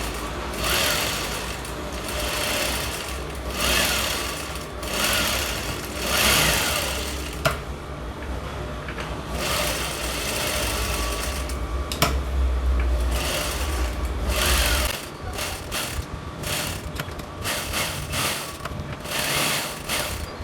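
Sewing machine stitching, with a steady low run and repeated swells, that stops suddenly about three-quarters of the way through, followed by irregular clicks and fabric handling.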